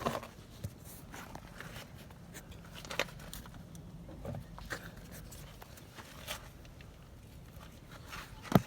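Scattered light clicks and knocks over a faint low hum, with one sharp, louder knock near the end.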